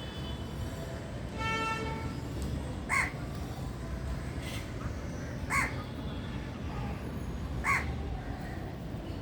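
A crow cawing: three short, harsh caws about two to two and a half seconds apart, over a steady low background rumble.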